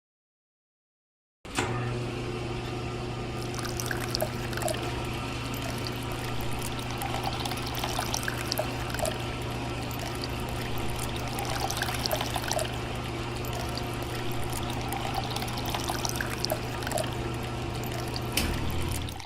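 Small electric motor humming steadily while water pours and splashes, starting about a second and a half in.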